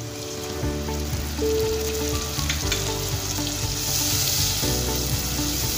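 Sliced onions frying in oil sizzle as tomato paste is poured into the pot and stirred in with a spatula; the sizzle grows stronger about four seconds in.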